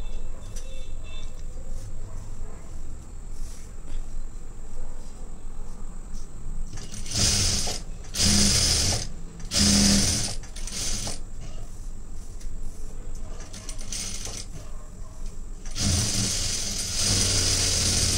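Sewing machine stitching a blouse seam in short runs, several quick bursts from about seven seconds in, then a longer run near the end, with quieter handling of the cloth between.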